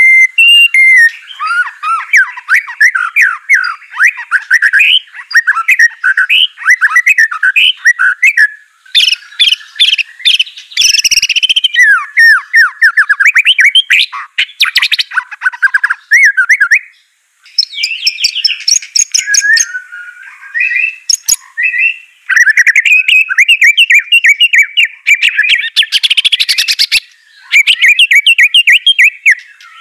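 White-rumped shama (murai batu) singing loudly: a fast, varied song of rapid chirps, trills and whistled phrases, nearly unbroken, with a short pause a little past halfway.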